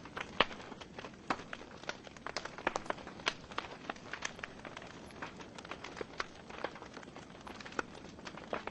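Wood fire in a fireplace crackling: burning logs give off irregular sharp pops and snaps over a soft steady hiss, the loudest pop about half a second in.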